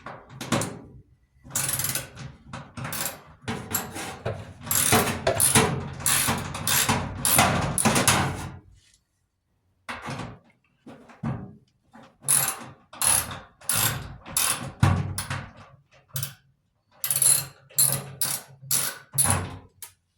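A ratchet wrench with a 1/4-inch socket clicking in quick runs of strokes, in several bursts with short pauses, backing out the screws that hold a clothes dryer's sheet-metal back panel.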